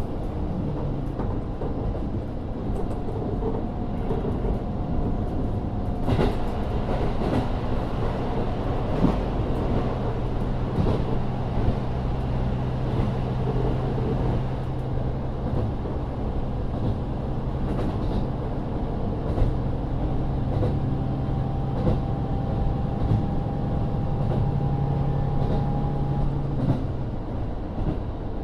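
Running sound inside a KIHA40 diesel railcar under way: its DMF13HZB six-cylinder diesel engine pulls steadily, with scattered clicks from the wheels over the rails. The engine note eases off near the end.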